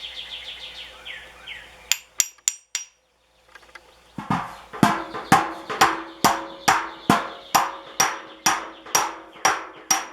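Hammer striking the copper of a fire pit. A few light taps come about two seconds in, then a steady run of blows about two a second, each leaving a short metallic ring, as in beating out dents in the soft copper.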